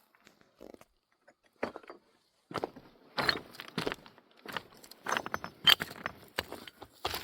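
A series of irregular knocks, crunches and clinks, beginning about one and a half seconds in and coming thick and fast through the rest.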